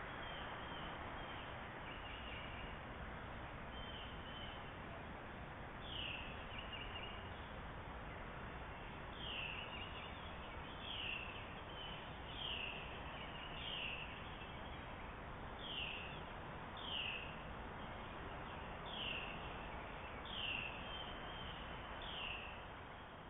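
A bird calling over and over, a short falling note repeated about every second and a half from about six seconds in, over a steady outdoor hiss.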